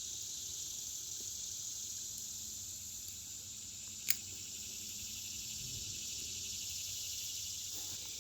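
Steady high-pitched chorus of summer insects, with a single sharp click about four seconds in.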